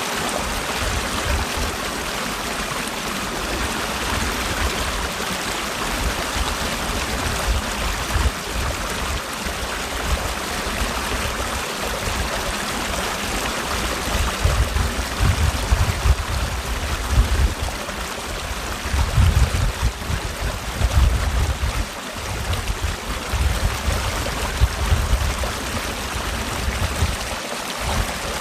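Mountain valley stream rushing steadily over rocks, with irregular low rumbles that come and go in the second half.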